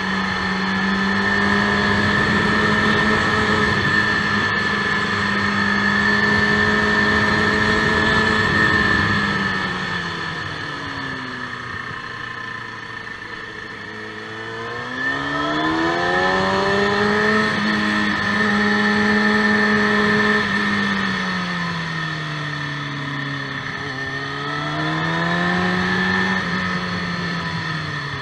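KTM motorcycle engine heard from on board, held at high revs, dropping as the rider eases off for corners and pulling back up: the revs fall about ten seconds in, climb again around fifteen seconds, fall around twenty-two seconds, rise, and fall again near the end. A steady high whine runs under it.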